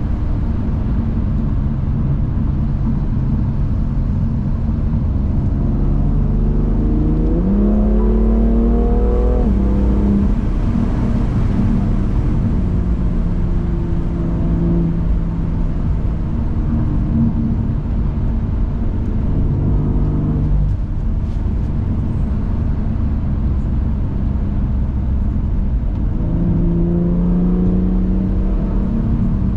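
BMW M2 Competition's twin-turbo inline-six running under way, rising in pitch as it accelerates about seven seconds in and again near the end, with steadier cruising between.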